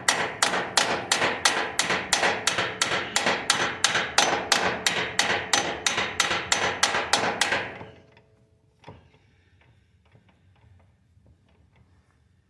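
A hammer striking steel, driving the roll pin into the front drive shaft yoke of a Kubota BX2200 compact tractor. About three quick, even blows a second stop some seven seconds in, followed by one faint knock; the pin is only partly driven, enough to hold the joint until a new roll pin is fitted.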